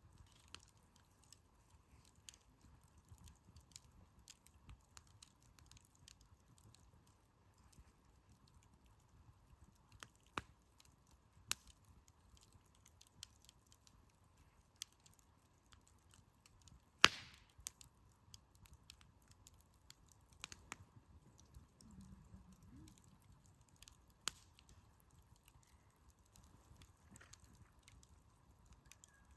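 Wood campfire crackling quietly, with scattered snaps and one loud sharp pop a little past halfway.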